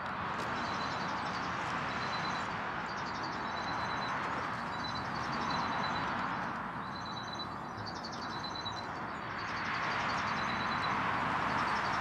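A bird repeating a short high note about once a second over a steady rushing background that slowly swells and fades, with a few faint clicks.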